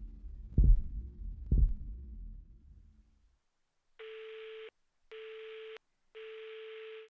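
Two low heartbeat-like thuds over a low rumble that fades away, then, after a moment of silence, a telephone busy tone: three steady beeps on one mid-pitched note with short gaps between them.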